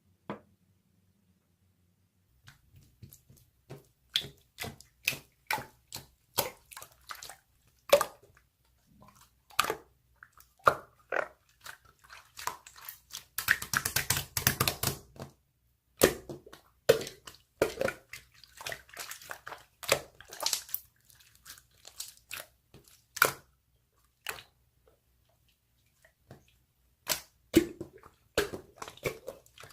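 Slime being squeezed and poked by hand, making irregular sticky clicks and pops, with a stretch of dense crackling around the middle.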